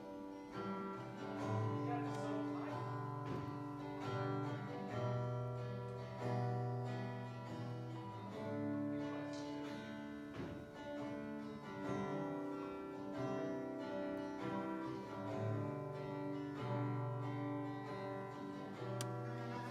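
Acoustic guitar strumming slow sustained chords, with no singing.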